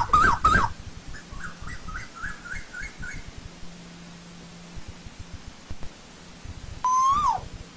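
Asian koel calling in clear whistled notes. A fast series of rising notes ends just under a second in, followed by a fainter, higher series of rising notes over the next two seconds. Near the end comes a single loud note that rises and then drops away.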